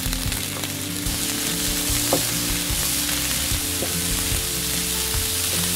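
Rice and kimchi sizzling as they stir-fry in a hot oiled pan, with a spatula stirring through them. There is a single sharp knock about two seconds in.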